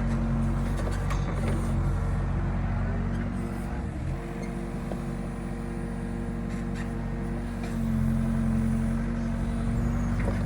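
Excavator's diesel engine running steadily; it drops in pitch and eases off about four seconds in, then revs back up and gets louder near the end.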